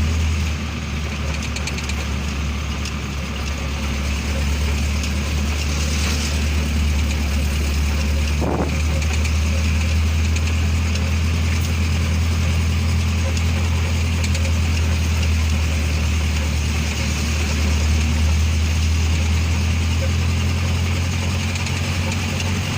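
Truck engine running steadily as the truck drives, a constant low drone.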